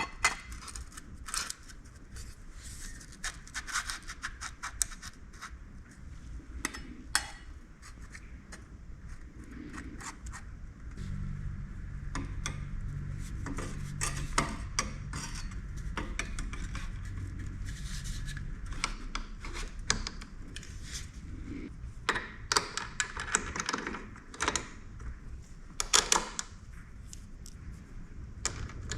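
Metal parts and hand tools clinking and scraping, with many short sharp knocks, as exhaust hardware is worked on. A low steady hum runs through the middle.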